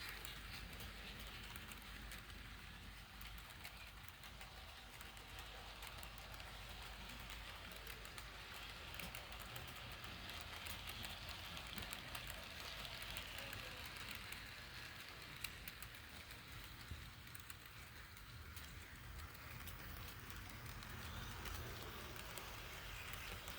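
Model freight train running on floor-laid track: a faint steady rolling hiss with many light clicks.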